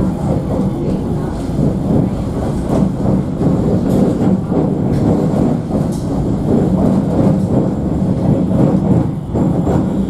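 Alstom Citadis tram running along the track, heard from inside the car: a steady rumble of wheels on rails and running gear.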